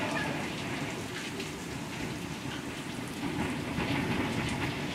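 Heavy rain and strong wind of a severe thunderstorm: a steady rushing with a low rumble and scattered ticks of drops.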